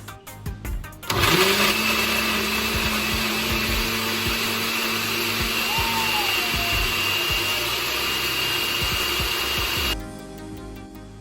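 Countertop blender running for about nine seconds, blending a smoothie of frozen fruit: the motor spins up with a rising whine about a second in, runs steadily, then stops near the end.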